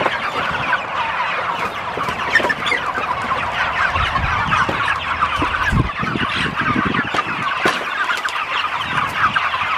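A flock of Cornish Cross meat chickens clucking and peeping continuously, many short overlapping calls. A few low thuds sound about four to six seconds in.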